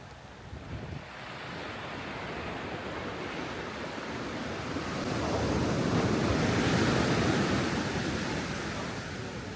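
Sea surf: a wave swells, breaks and washes up the beach, loudest a little past the middle and dying away near the end, with some wind on the microphone.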